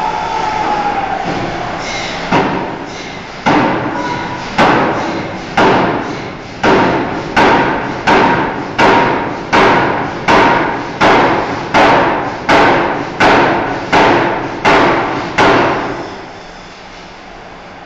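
Forging hammer blows on a steel bar, about seventeen heavy strikes that come faster, to more than one a second, each ringing briefly, over a steady machine noise. They stop near the end.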